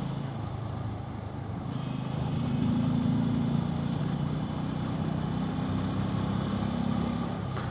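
Bajaj Pulsar N250's single-cylinder engine running steadily while riding, with road and wind noise, the engine growing louder about two seconds in.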